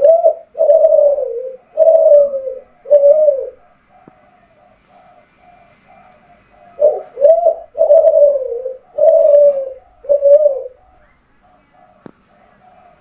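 Spotted dove of the Kelantan song strain (derkuku Kelantan) cooing: two phrases of deep coos, one at the start and another from about seven seconds in, each a short note or two leading into longer falling notes. Fainter coos carry on between the phrases.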